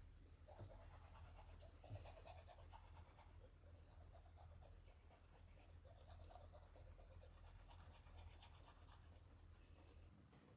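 Faint, continuous light scratching and rubbing made of many small strokes, over a steady low hum.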